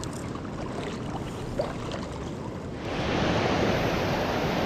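Steady rushing of river water and wind, which jumps louder and brighter about three seconds in.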